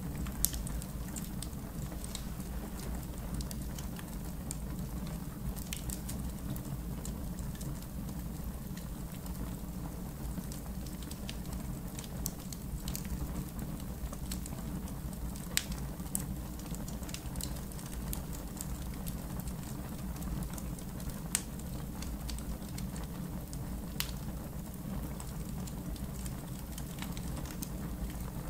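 Wood fire burning in a fire pit: a steady low rumble and fine crackle, with a sharp pop every few seconds.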